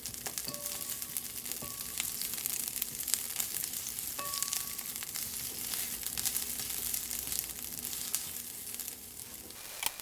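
Sliced onion sizzling and crackling steadily in hot oil in a nonstick pan as it sautés over medium heat.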